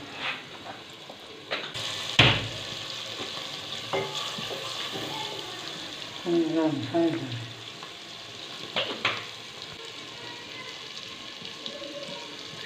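Onion, tomato and turmeric masala sizzling steadily as it fries in an aluminium pot, with a ladle stirring and knocking against the pot now and then. The loudest knock comes about two seconds in, and two more come close together near nine seconds.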